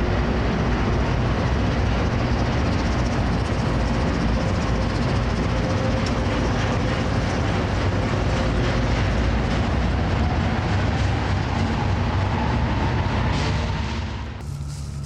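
A train running past, a loud steady noise of rolling wheels and cars that cuts off abruptly near the end.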